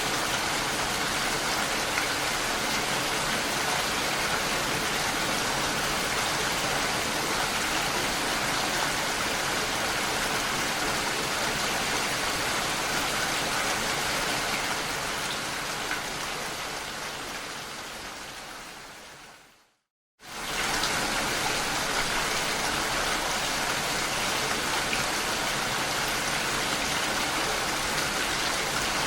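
Steady rain, an even hiss of many drops. About two-thirds of the way through it fades away over a few seconds to a moment of silence, then comes back suddenly at full strength, like a loop restarting.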